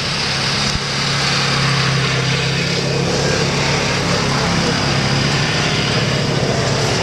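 A vehicle engine running steadily: a low drone with a steady hiss over it.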